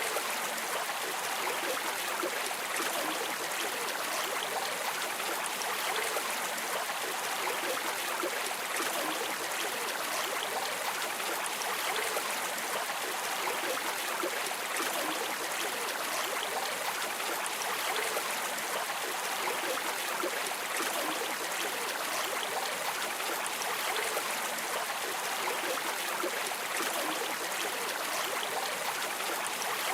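Flowing stream water rushing and trickling steadily, with no breaks.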